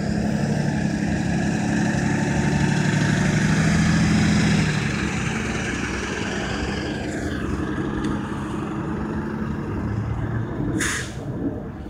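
A large truck's engine runs loudly for the first four or five seconds, then eases off and carries on lower as the truck moves. About eleven seconds in, a short, sharp hiss of air brakes.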